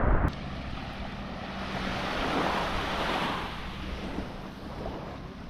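Calm sea waves washing on a sandy beach, swelling about two seconds in and easing off again, with wind on the microphone.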